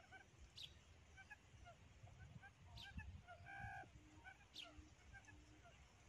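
Faint bird calls: three sharp high calls about two seconds apart, scattered soft chirps, a short pitched call in the middle, and a low hooting note repeated about every half second through the second half.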